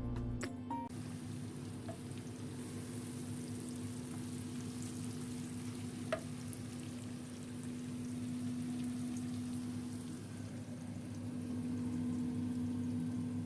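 Food sizzling as it fries in a pan, a steady hiss with a constant low hum beneath it and a single click about six seconds in. Background music ends about a second in.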